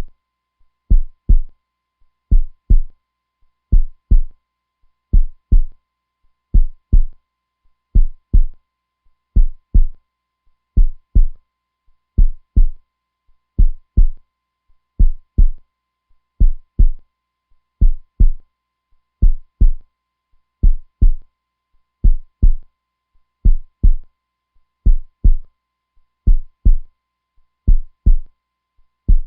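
A heartbeat playing on a steady loop: low paired lub-dub thumps, about one double beat every second and a half, evenly spaced throughout.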